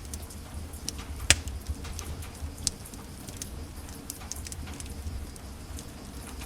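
Wood fire in a fireplace crackling: irregular sharp pops and snaps over a low steady rumble of the flames, the loudest pop about a second and a half in and another near three seconds in.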